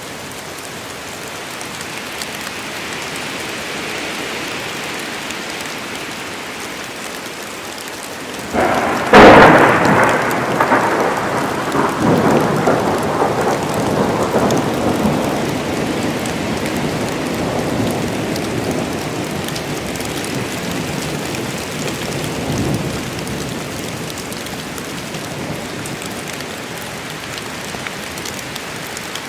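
Steady rain falling on the forest. About nine seconds in, a sharp, close thunderclap breaks out and is the loudest sound, followed by a rolling rumble that slowly fades, swelling again a few times.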